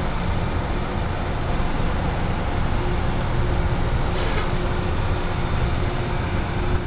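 Heavy railroad equipment running with a steady low rumble and noise, with a short hiss of air about four seconds in.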